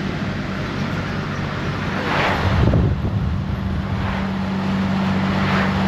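A BMW's engine and road noise heard from inside the cabin while driving, a steady low drone with a brief louder surge about two and a half seconds in.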